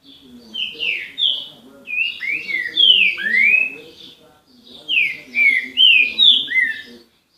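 A songbird singing loud phrases of clear whistled notes that slide downward. There are two bouts of song with a short pause between them.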